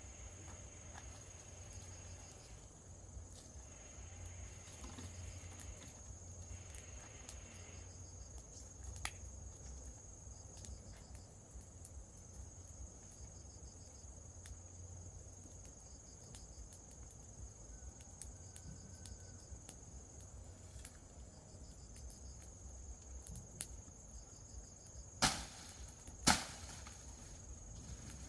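Insects, crickets most likely, trilling steadily on one high note, with scattered light clicks of handwork and two sharp knocks about a second apart near the end.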